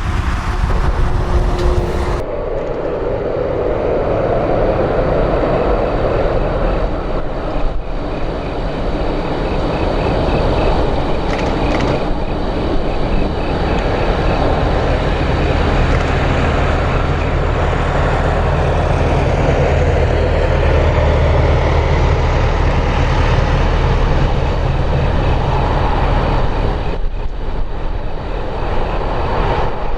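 Boeing 747 freighter's jet engines running with a faint steady whine, mixed with a loud low rumble of typhoon-strength wind on the microphone.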